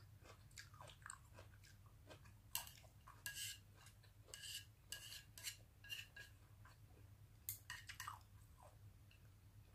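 Faint mouth sounds of chewing grilled meat and sautéed cabbage, with light clicks of wooden chopsticks against a plate, coming in irregular clusters over a low steady hum.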